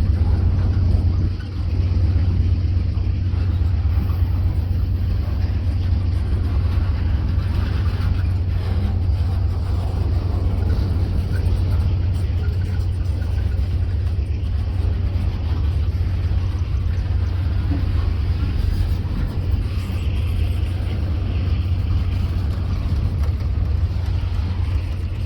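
Freight train rolling past at trackside, a steady low rumble of the locomotives and cars on the rails.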